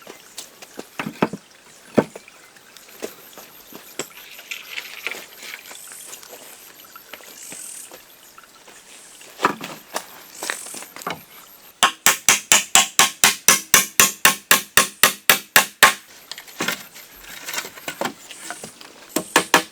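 Scattered knocks and taps, then a fast, even run of sharp pitched beats, about seven a second, that breaks off and starts again near the end.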